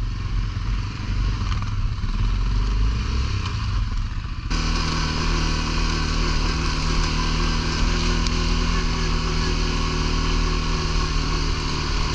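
ATV engine running under way on a trail, revving up briefly in the first few seconds. About four and a half seconds in the sound changes abruptly to a fuller, steady engine note.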